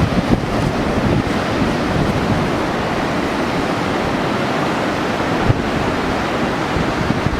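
Heavy post-typhoon surf breaking steadily along the beach, a continuous wash of waves, with wind buffeting the microphone.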